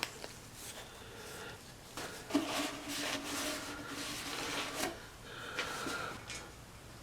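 A small electric motor runs steadily for about two and a half seconds, with rubbing and scraping noises over it, followed by a shorter burst of scraping.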